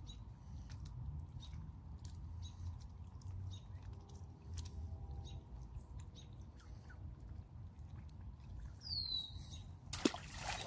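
Faint, scattered high chirps and peeps from birds over a low rumble, with one falling chirp about nine seconds in and a single sharp knock about a second later.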